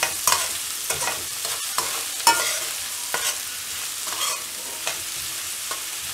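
Chopped onions and garlic sizzling in hot oil in a kadai while a steel spoon stirs them, with irregular clicks and scrapes of the spoon against the pan; one sharper knock a little over two seconds in.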